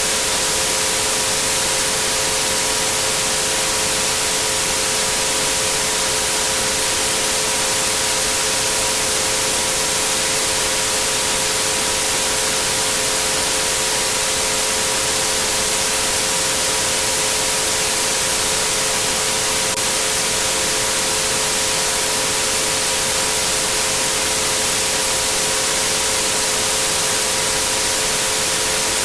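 Steady synthesized white noise, a hiss brightest in the treble, with three pure sustained tones at 432, 528 and 963 Hz sounding together beneath it, unchanging throughout.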